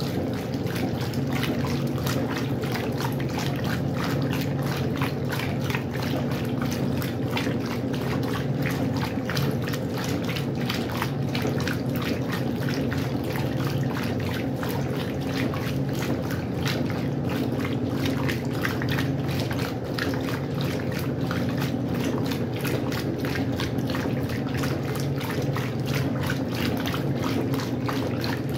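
Westinghouse washing machine running with water splashing and trickling inside it, steady throughout over a constant low hum.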